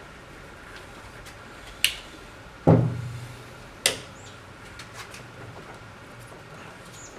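Three knocks from hands and tools on metal parts during work in a car's engine bay. The middle one, the loudest, is a heavier thud with a short low ring.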